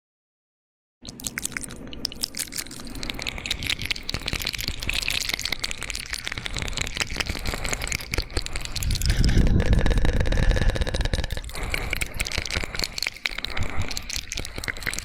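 Fast, wet mouth sounds close to the microphone: a dense run of rapid clicks and smacks, starting about a second in after a silent gap. Past the middle they grow louder for a couple of seconds, with a low rumble underneath.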